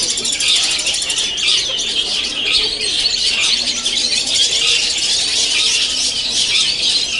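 Many caged long-tailed shrikes (cendet) singing at once: a dense, unbroken chorus of overlapping high chirps, trills and rapid phrases.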